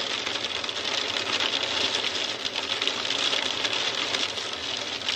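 Hailstones falling: a steady, dense patter of rapid small ticks and clicks.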